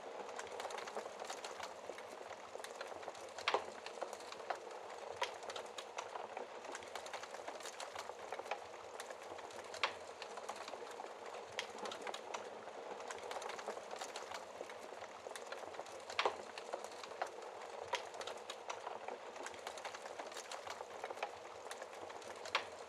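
Wood fire burning in a fireplace, crackling steadily with many small snaps over a soft hiss. Four louder pops come about every six seconds.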